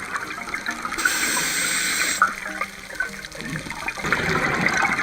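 Water splashing and gushing loudly, with a denser surge between about one and two seconds in.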